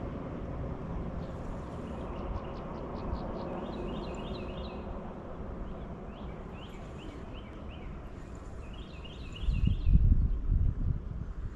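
Small birds chirping in quick repeated groups of short notes over a steady outdoor noise, with a loud low rumble between about nine and eleven seconds in.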